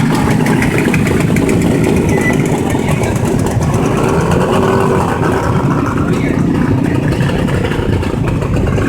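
Two-stroke motorcycle engines running, a steady, dense, low drone.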